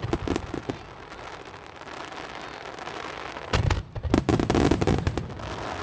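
Aerial fireworks display: crackling at first, a hissing wash that grows louder, then a heavy boom about three and a half seconds in followed by a quick string of bangs and crackles.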